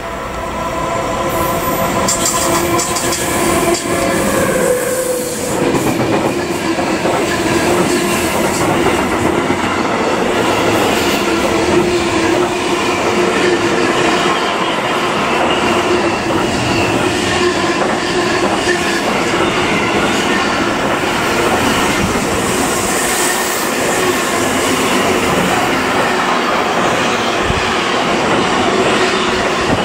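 A freight train of pocket wagons carrying semi-trailers runs through at speed, with a steady rumble of wheels, clickety-clack over the rail joints and a thin, steady squeal from the wheels. The sound swells over the first couple of seconds and then holds loud and even.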